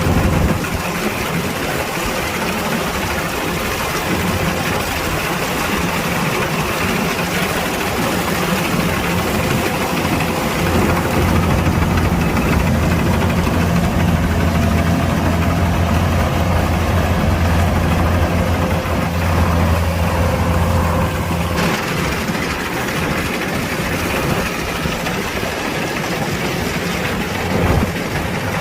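Kubota DC-105X combine harvester's diesel engine running steadily, with its low hum growing louder for about ten seconds in the middle before easing back.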